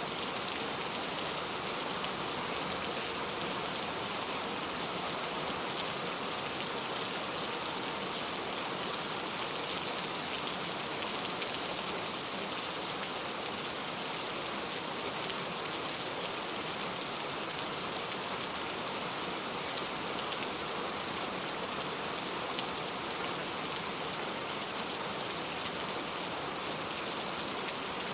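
Steady, even rain falling, with many fine drop hits in it.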